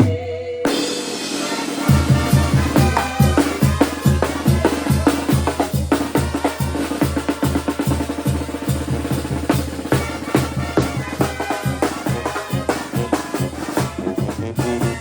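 Mexican banda music with drums: a steady beat of bass drum and snare under a bass line and pitched instruments. The sound cuts just under a second in, and the heavy beat starts about two seconds in.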